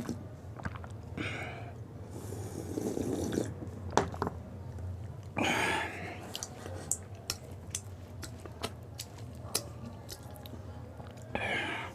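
Close-up eating sounds of pani puri: chewing and crunching the crisp puri shells, with scattered sharp crackles and three longer noisy stretches, about one, two to three and a half, and five and a half seconds in.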